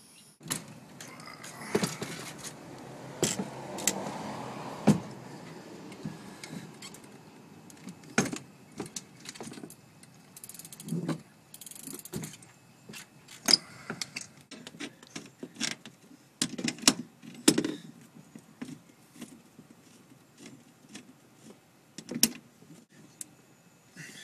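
Handling noise: scattered sharp clicks and knocks with some rustling, busiest in the first five seconds, as of things being moved about and shut in a packed truck.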